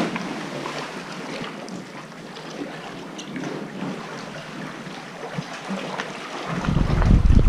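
Sea water lapping and splashing around a kayak, with small scattered ticks of water. About six and a half seconds in, a loud low rumble of wind on the microphone sets in and takes over.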